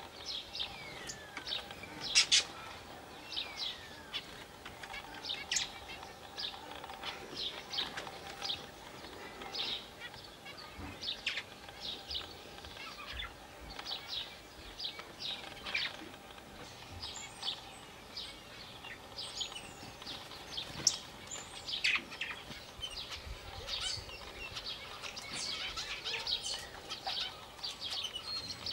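Aviary birds chirping: many quick, high chirps and calls, some sliding down in pitch, overlapping throughout.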